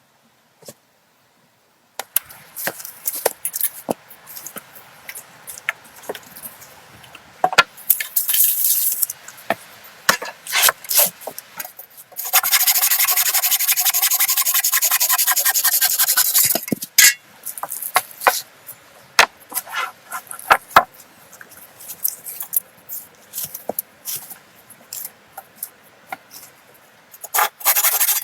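Hand-tool scraping and rubbing, in irregular strokes, with a steady run of fast rasping strokes lasting about four seconds near the middle.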